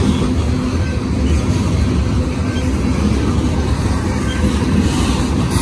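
Freight train cars rolling past: a steady rumble of wheels on the rails.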